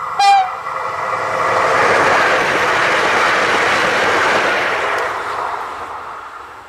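Softronic Hyperion electric multiple unit passing at speed. A short, sharp horn toot comes just after the start, then the rushing noise of the train swells to a peak about two to four seconds in and fades away as it recedes.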